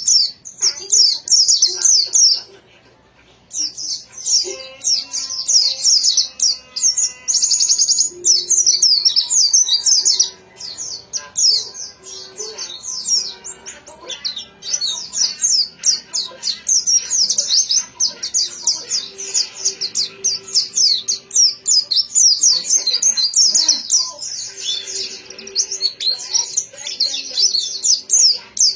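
White-eye (pleci) singing a fast, high, chattering song almost without a break, pausing briefly about three seconds in.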